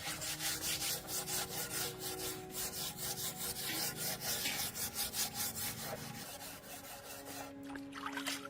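Rapid back-and-forth rubbing strokes of a hand tool on a surface, about four a second, like hand sanding, filing or scraping, easing off about six seconds in.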